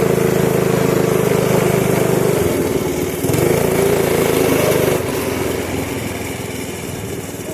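Small single-cylinder pit bike engine running steadily. Its note shifts about two and a half seconds in, then drops quieter about five seconds in.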